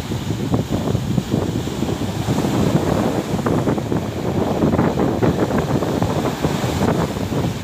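Wind buffeting the microphone, a steady, irregular rumble.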